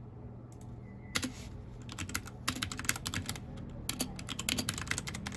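Mechanical keyboard typing: after a near-quiet first second, quick runs of keystroke clicks start and go on in uneven bursts. A steady low hum sits underneath.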